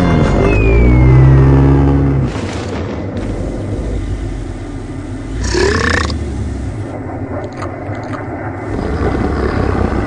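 Cartoon soundtrack sound effects: a droning sound that falls in pitch, then a loud low rumble for about two seconds, followed by quieter mixed rumbling and a short rising sound about halfway through.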